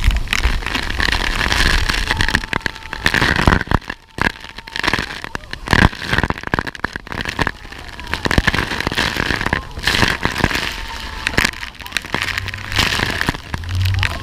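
Wind and water spray buffeting the microphone on a speedboat, a loud rushing noise full of irregular crackling hits.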